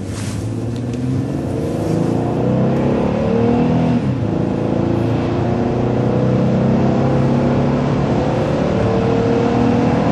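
Car engine accelerating hard, heard from inside the cabin, its note climbing in pitch and growing louder as the car gathers speed.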